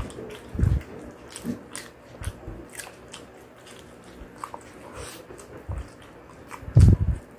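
Close-up chewing and biting of fried chicken: crisp bites, wet mouth clicks and smacks, with a few loud low thumps, the loudest cluster near the end.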